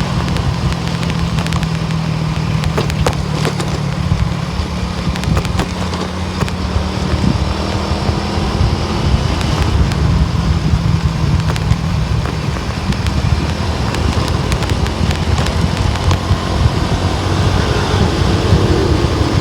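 A car driving steadily: a low engine hum under the constant rush of tyre and road noise.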